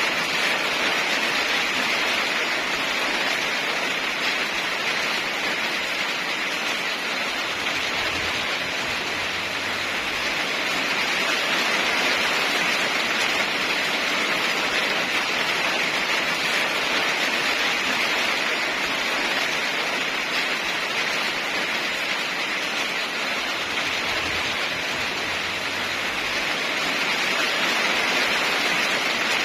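Steady heavy rain falling, a dense even hiss with slow, gentle swells in loudness.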